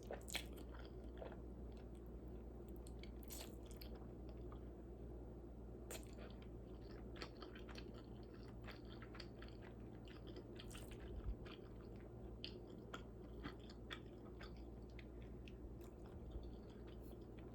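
Faint chewing of a mouthful of noodles, with small irregular mouth clicks and smacks.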